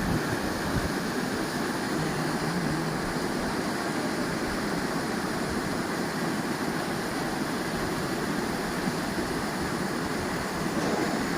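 Waterfall pouring: a steady rushing of falling water.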